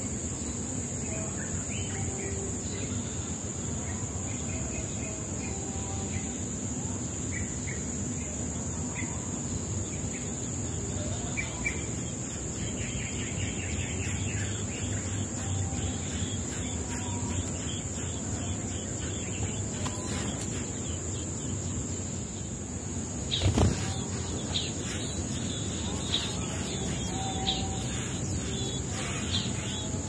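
Scattered short bird chirps over a steady high insect trill. A brief loud thump comes about three quarters of the way through.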